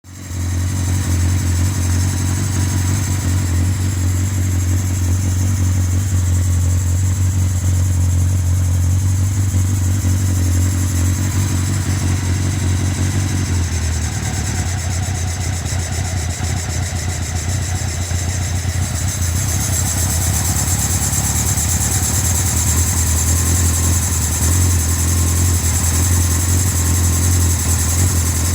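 Honda CBR1000F Hurricane's carburetted inline-four engine idling steadily, its tone shifting slightly about halfway through.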